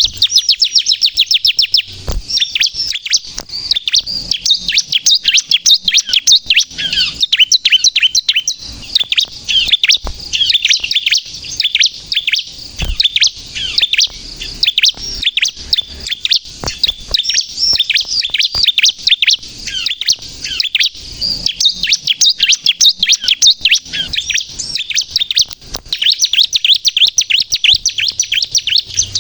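Bar-winged prinia (ciblek) singing loudly and without pause in long, rapid runs of short, high chirps.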